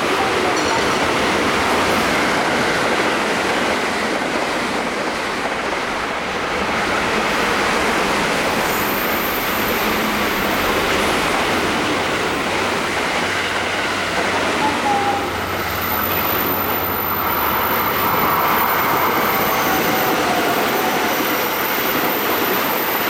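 Electric passenger train running past at speed: a continuous rush of wheel and rail noise.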